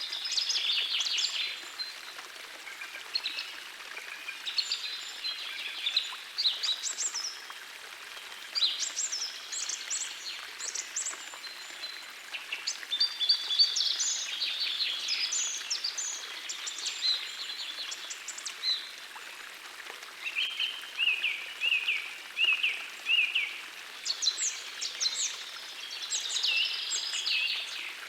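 Songbirds singing in short phrases of high chirps and trills, one of them repeating a note several times in a row in the second half, over the steady rush of a small forest stream.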